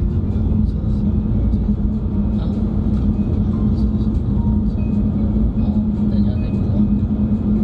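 Car driving, heard from inside the cabin: a steady low rumble of road and engine noise with a constant drone.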